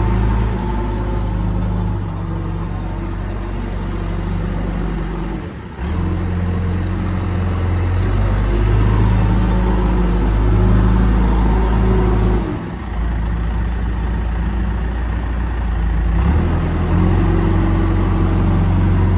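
The diesel engine of a 2002 John Deere 310SG loader backhoe running steadily. Its note shifts several times, with brief drops in level about five and a half and twelve and a half seconds in.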